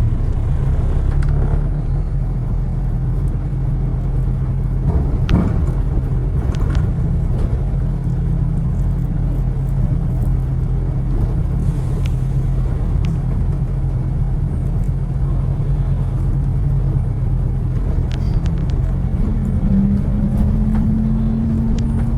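A vehicle engine running steadily in traffic: a continuous low rumbling hum. A second, higher hum joins near the end.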